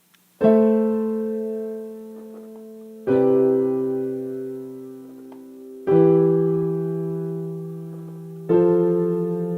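Piano playing a slow introduction: four sustained chords, about one every two and a half to three seconds, each left to ring and fade.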